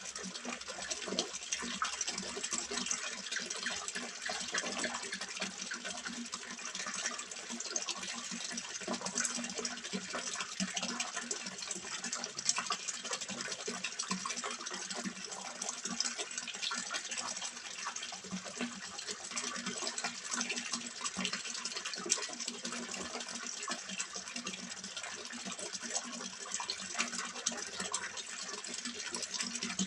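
Water splashing and trickling steadily into a small fish pond, a continuous crackling patter with no breaks.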